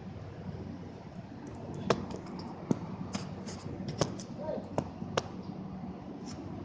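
A scattering of sharp clicks and taps, about eight to ten spread irregularly, over a steady low background hum, with one faint short call about four and a half seconds in.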